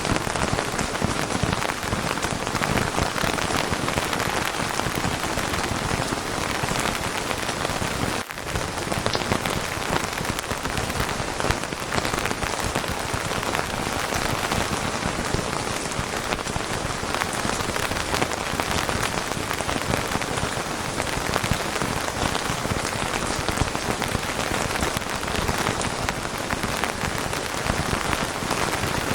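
Steady, dense rainfall pattering on a surface, with a momentary dip in level about eight seconds in.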